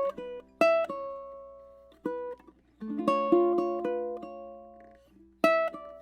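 Ken Franklin custom tenor ukulele, with an Engelmann spruce top and bird's-eye maple, played slowly in a fingerpicked passage. Single plucked notes and rolled chords ring out and fade, with short gaps about two and a half seconds in and again near the end.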